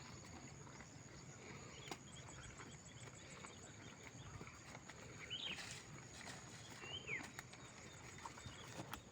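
Faint outdoor ambience with scattered soft knocks and a couple of short falling chirps about halfway through and a second and a half later.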